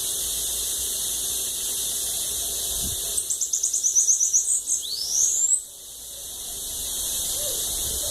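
Bananaquit (sibite) singing: about three seconds in, a quick run of about fifteen high, thin notes, then one sweeping note that rises in pitch, over a steady high hiss.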